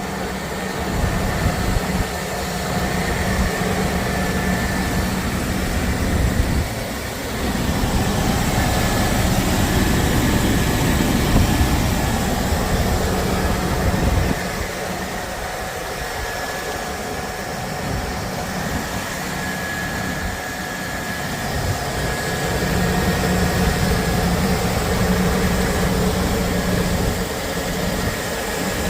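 V8 engine of a 1999 GMC 1500 Suburban running steadily, its level rising and easing a few times.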